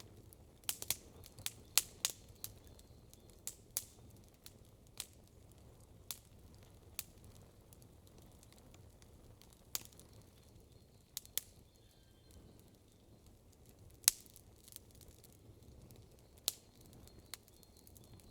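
Wood campfire crackling: sharp, irregular pops over a faint low hiss. A quick cluster of pops comes in the first few seconds, then they are scattered, with the loudest pop about fourteen seconds in.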